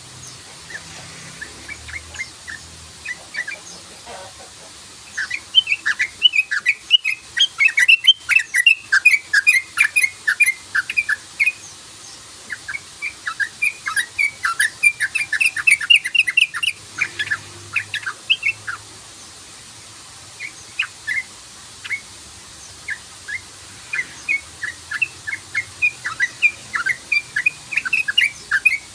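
Yellow-vented bulbul (trucukan) calling in fast runs of short chattering chirps, the rapid 'cruk-cruk' call, in several bursts with short pauses between them.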